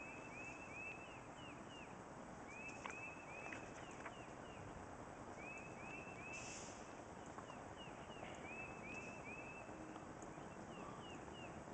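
A songbird singing a short phrase of three or four quick, repeated chirps, repeated every two to three seconds over a faint steady background hiss.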